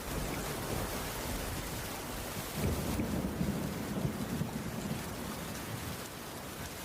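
Steady heavy rain falling on a cabin roof, with a low rumble of thunder that rises about two and a half seconds in and fades out a couple of seconds later.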